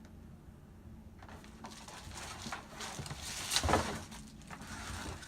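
Handling noises as a ring light's tripod stand is examined: scattered clicks and rustles, with a louder rustling knock about three and a half seconds in.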